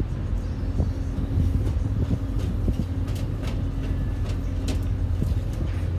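A steady low engine rumble with a faint hum on top and scattered light clicks.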